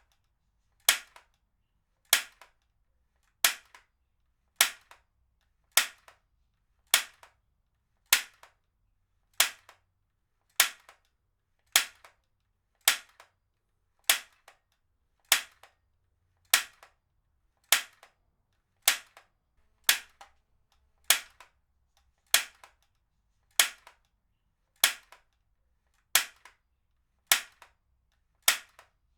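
Heavy-duty stapler fired over and over at an even pace, one sharp snap a little more than once a second, each followed by a faint click.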